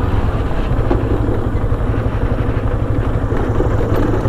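Motorcycle engine running at a steady speed while riding, its low firing pulse under a haze of road and wind noise.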